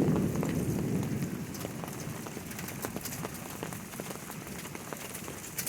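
Rain falling, with many sharp ticks of drops landing close by. A low rumble dies away over the first second and a half.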